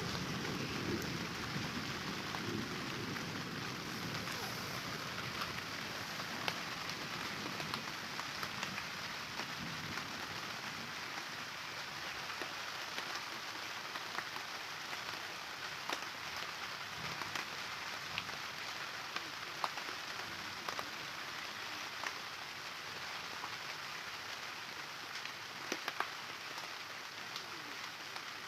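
Steady rain falling, an even hiss with scattered sharp ticks of drops striking close by.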